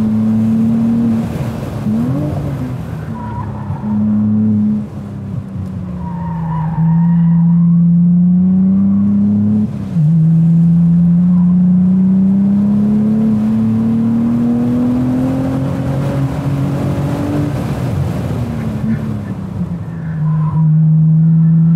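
Cadillac ATS-V's twin-turbo V6 heard from inside the car on track, its pitch dropping and climbing again several times as the driver lifts for corners and gets back on the throttle, with one long steady climb in revs in the middle. Brief tire squeal comes and goes in the corners.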